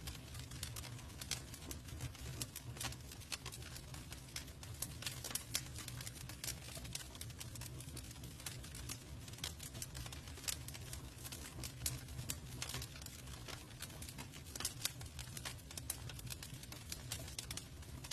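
Campfire burning: wood crackling and popping in many irregular sharp clicks over a low steady rumble of the flames.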